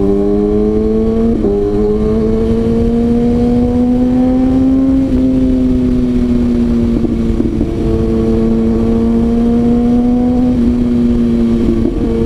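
Kawasaki ZX-6R inline-four engine pulling while riding, its note climbing slowly for about five seconds with a brief dip about a second and a half in, then dropping a little and holding steady, with wind rush underneath.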